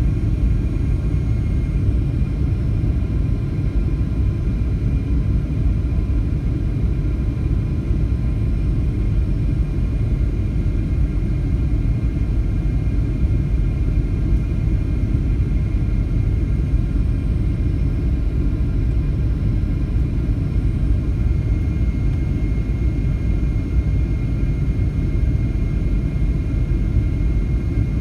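Passenger airliner cabin noise on approach: a steady low rumble of the jet engines and airflow, with faint steady whining tones above it.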